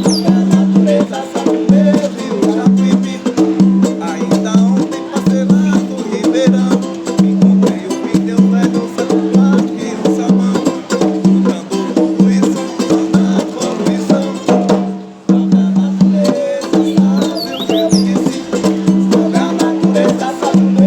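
Berimbau music in an ijexá rhythm: the berimbau's struck wire sounds a repeating pitched note pattern, with the caxixi rattle shaking and woody taps. The groove breaks off briefly about fifteen seconds in, then picks up again.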